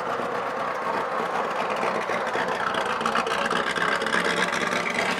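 Vintage straight-eight car engine running steadily, a dense, rapid exhaust note that grows a little louder about halfway through.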